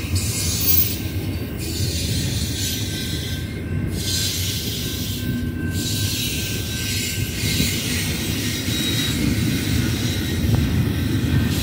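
BNSF double-stack container train rolling past: a steady low rumble of wheels and cars on the rails. Over it runs a high hiss that fades out briefly a few times.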